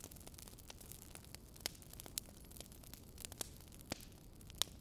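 Knife chopping napa cabbage on a plastic cutting board: a handful of sharp, irregularly spaced knocks over a steady faint hiss.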